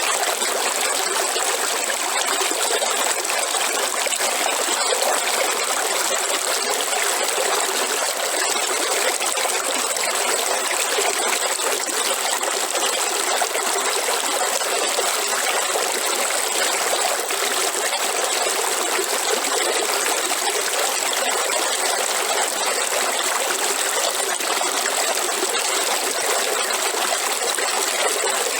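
Waterfall: falling water rushing steadily and evenly, with little deep rumble.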